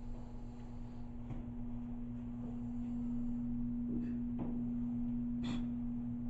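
A steady low hum holding one constant pitch, with a few faint knocks scattered through it.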